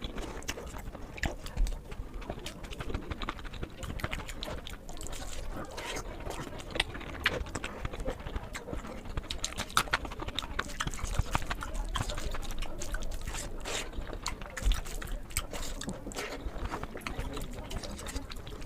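Close-up eating sounds: wet chewing and lip smacking with many quick clicks and smacks throughout.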